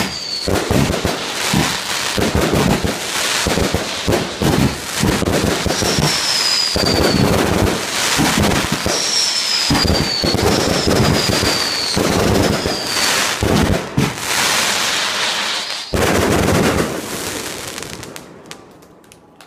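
Fireworks display: dense, rapid bangs and crackling, with several short falling whistles, then dying away near the end.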